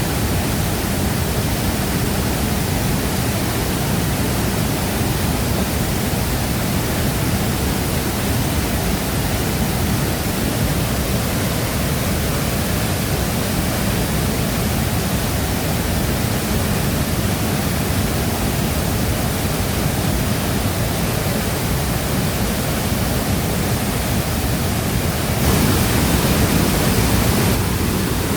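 Steady rushing of water pouring over a waterfall, an even noise with most of its weight low down. It swells a little louder for about two seconds near the end.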